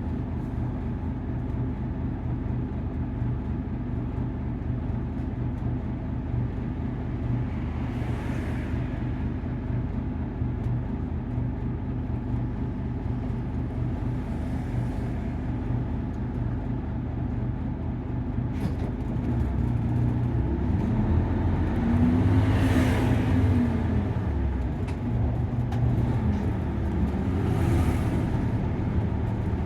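Nissan Diesel KC-UA460LSN city bus's diesel engine heard from inside the cabin while the bus is under way. The engine runs steadily, then gets louder from about two-thirds of the way in, its note rising and falling as it revs up and eases off. A few brief hissing swells of road or air noise come and go over it.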